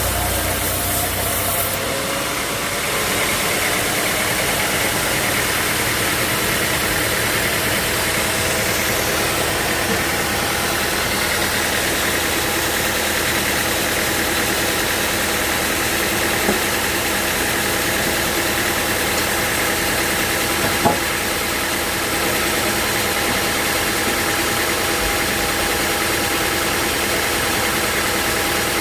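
Sawmill machinery running steadily, with a dense, even mechanical noise and a few steady tones. A low rumble drops away about two seconds in, and two short sharp knocks come later.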